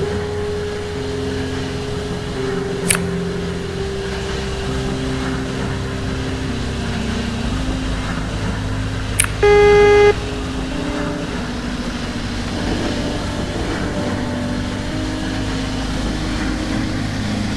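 Train running with steady motor tones that step up and down in pitch, a few sharp clicks, and one short, loud horn blast about nine and a half seconds in.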